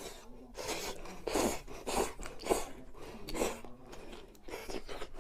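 Close-miked eating: a person biting and chewing crunchy food, with about six separate crisp crunches over a few seconds.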